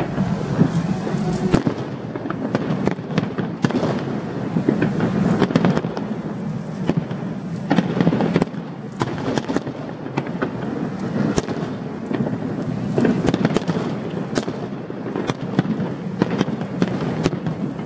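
A fireworks display: a continuous barrage of shells bursting and crackling, with many bangs in quick, irregular succession.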